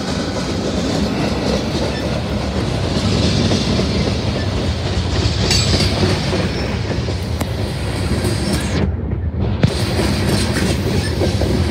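CSX freight train rolling past close by: a locomotive passes at the start, then freight cars go by with a steady rumble of wheels and a clickety-clack over the rail joints.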